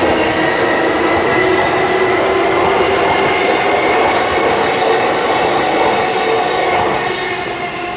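Keihin-Tohoku Line electric commuter train pulling out of the station, its motors whining in steady tones over the rumble of wheels on the rails, the sound fading as the last car moves away near the end.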